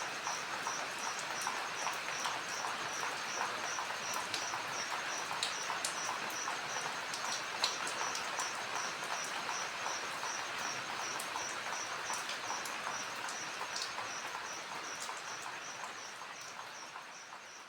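Night insect chorus: one cricket chirping evenly, about three high chirps a second, over a dense steady hiss of other insects. The sound fades out near the end.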